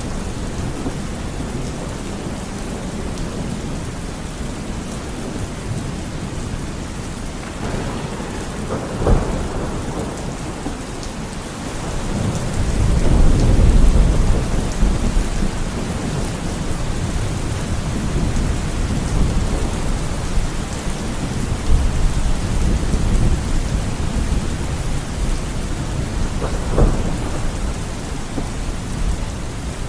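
Steady rain with thunder: a sharp crack about nine seconds in, a low rumble swelling a few seconds later, and another sharp crack near the end.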